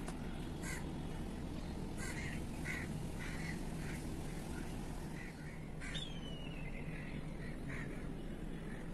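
Birds calling: a series of short, harsh calls spaced irregularly, with one longer call that falls in pitch about six seconds in, over a steady low background noise.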